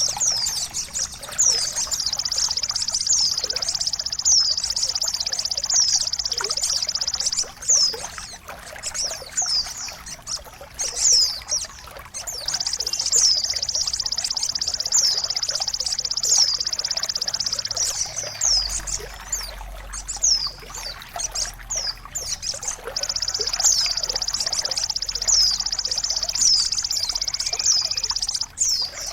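Songbird song played over the steady sound of running water, of the kind used as masteran to get caged birds singing. There are three long, fast, high trills of several seconds each, with quick downward-sweeping chirps between them.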